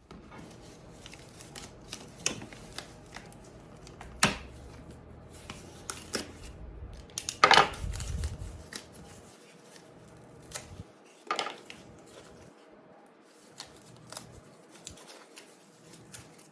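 Cardboard being cut out by hand with a blade: irregular scraping strokes and sharp snaps, the loudest about seven and a half seconds in.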